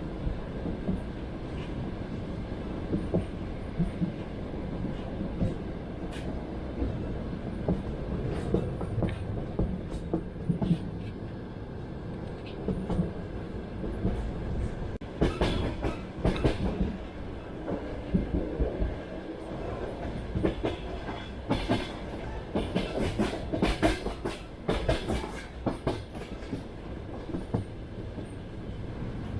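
Train wheels clattering over the rail joints above a steady rumble of the moving train. Bunches of sharper, louder knocks come about halfway through and again later on.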